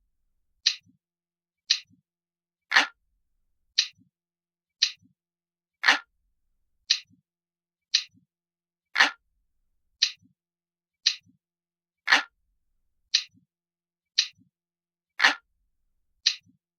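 Ticking clock sound, about one sharp tick a second, with every third tick louder and fuller, each tick trailed by a faint low knock.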